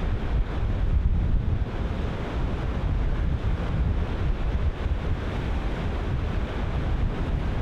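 Ocean surf breaking and washing continuously, with gusting wind buffeting the microphone as a low rumble.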